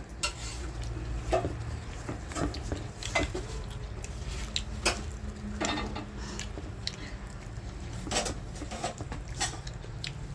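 Dishes and utensils clinking: a string of short, irregular clicks and knocks over a low steady hum.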